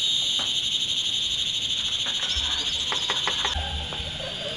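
Chorus of insects, crickets or similar, trilling steadily and high. A second, pulsing trill drops out about three and a half seconds in, and a few light clicks come just before that.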